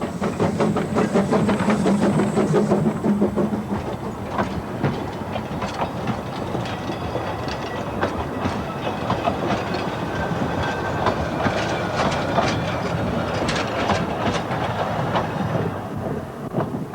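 Narrow-gauge train on the Talyllyn Railway running, its wheels clicking over the rail joints; the sound fades away near the end.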